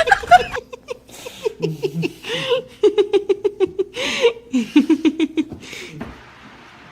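A person laughing hard in quick runs of short high-pitched bursts, with breathy gasps between them. The laughing stops about six seconds in.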